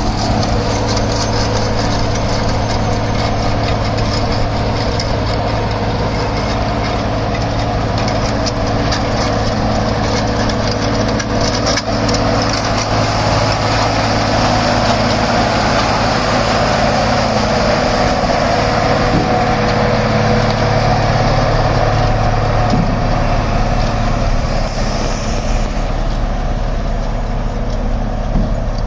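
Heavy earthmoving machine's diesel engine running steadily, a constant loud hum with mechanical noise over it.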